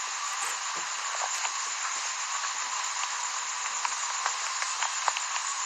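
Steady static hiss with faint scattered crackles.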